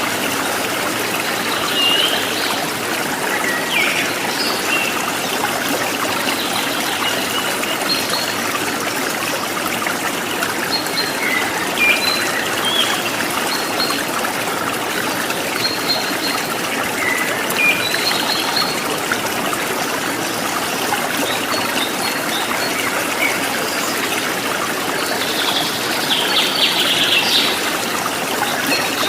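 Running stream water trickling steadily, with scattered short bird chirps over it and a quick run of chirping near the end.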